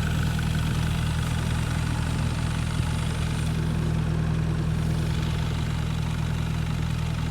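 Off-road SUV engine idling steadily.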